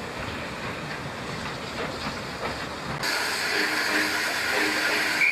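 Steam locomotive: a low rumbling train noise for about three seconds, then an abrupt change to a louder, steady hiss of escaping steam.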